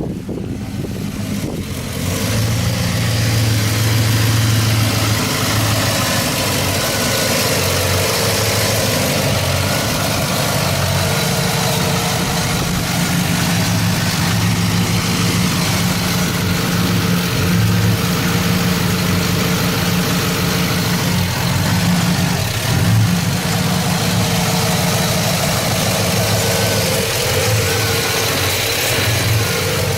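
2012 Chevrolet Silverado's 5.3-litre LC9 Vortec V8 idling steadily.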